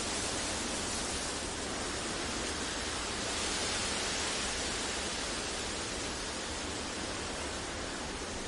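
Steady, even noise for sleep masking: a smooth hiss spread across low and high pitches with no tones or events, swelling slightly in its upper hiss about three seconds in.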